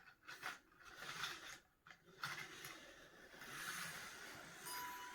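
Intelino toy train running on its plastic track, with light handling scrapes and clicks. A short electronic beep stepping down in pitch comes near the end.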